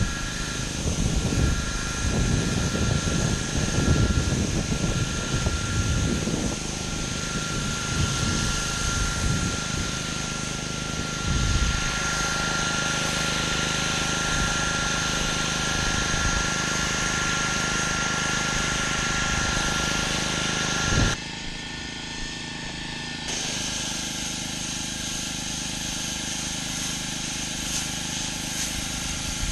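Gas-engine pressure washer running steadily, with the hiss of its high-pressure water spray. The sound changes abruptly about two-thirds of the way through, then runs on steadily.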